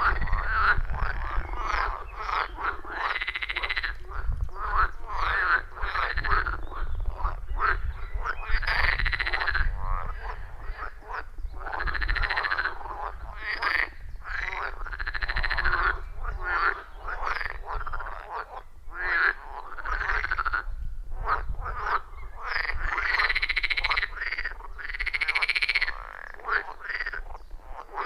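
A chorus of frogs calling at a forest pond, with many overlapping calls. Each call lasts about a second, rising and falling in pitch, and the calls repeat without pause over a low rumble.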